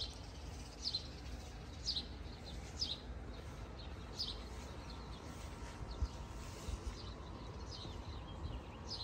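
A small songbird chirping over and over: short, high, falling chirps about once a second, over a steady low background rumble.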